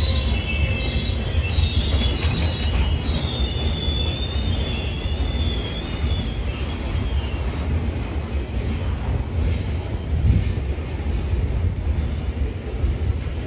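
Loaded aggregate hopper cars of a freight train rolling past with a steady low rumble. A wavering high wheel squeal runs through the first half, and brief thin squeals come and go later.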